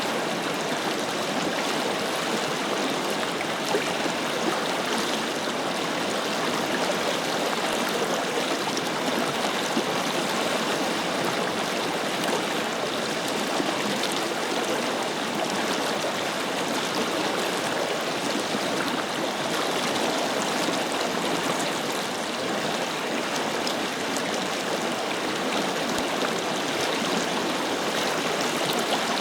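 Forest river flowing over rocks: a steady, even rush of running water with gurgling.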